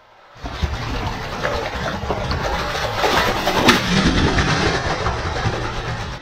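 A large tarpon thrashing at the surface beside the boat as it is released, loud splashing and churning water that starts suddenly about half a second in.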